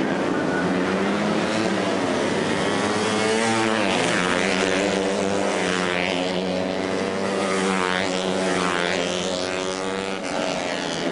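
Several racing motorcycle engines running hard at once, their pitch sweeping up and down repeatedly as the bikes accelerate, shift and pass by.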